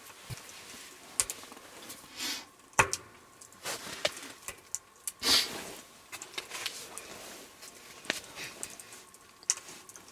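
Burning firewood crackling and popping inside a portable tent wood stove, with irregular sharp snaps, a couple of louder ones about three and five seconds in.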